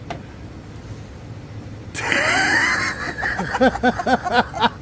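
A person bursting into loud laughter about halfway through. It starts suddenly and goes on as a run of quick ha-ha pulses, about four a second.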